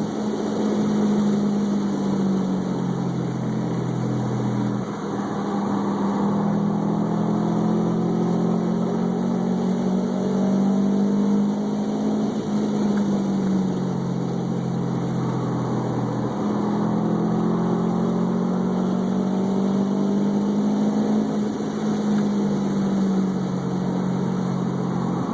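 Car engine being driven hard on a race track. Its pitch climbs over several seconds and then drops, again and again, as it accelerates and changes gear. The sound cuts off suddenly at the end.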